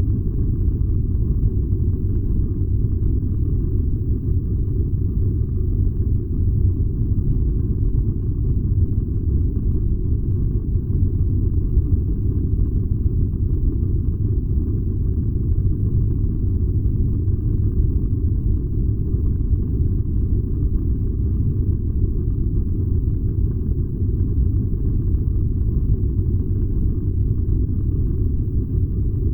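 Furnace burning with a steady, deep rumble, even and unbroken.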